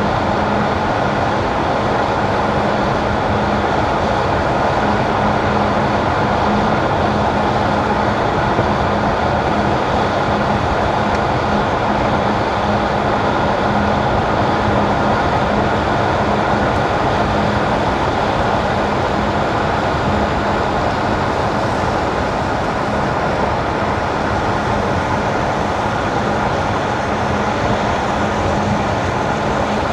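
Car driving on wet winter asphalt: steady tyre and road noise, with a steady low hum underneath.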